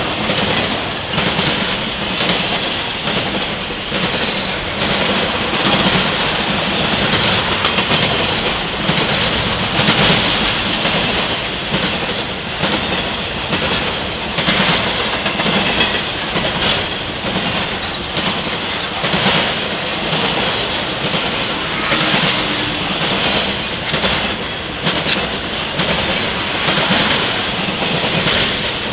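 Norfolk Southern intermodal freight train's cars, truck trailers on flatcars, rolling past: a steady rumble and rattle of steel wheels on the rails, broken by repeated wheel clacks.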